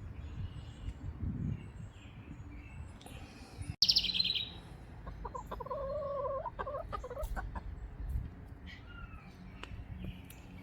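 Birds chirping outdoors, with a loud, high, rapid call about four seconds in, then a lower, pulsed clucking call lasting about two seconds. A low wind rumble runs underneath.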